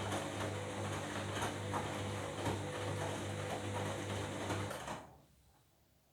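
Washing machine running, a steady motor hum with a mechanical rattle and clicking from the turning drum, which stops about five seconds in.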